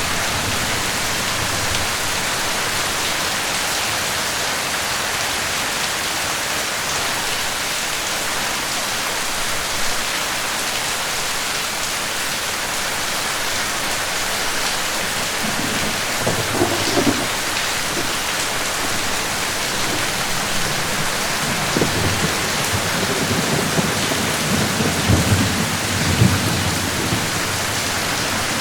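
Steady rain falling, a dense even hiss. A low thunder rumble rolls in a little past halfway, and a longer, stronger one follows later.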